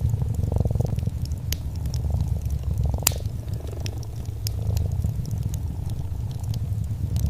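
Domestic cat purring, a steady low rumble that swells now and then, with scattered sharp crackles and pops from a wood fire over it, the loudest pop about three seconds in.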